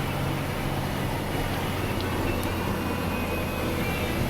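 Plow truck's engine running steadily under load, heard from inside the cab as the plow pushes through a deep snow drift, with rock music from the radio underneath.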